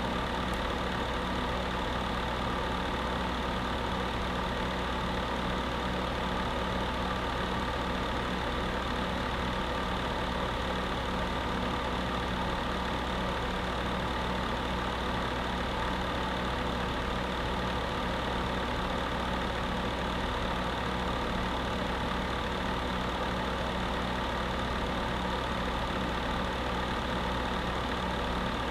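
Electric space heater running: a steady fan whir with a constant low hum, unchanging throughout.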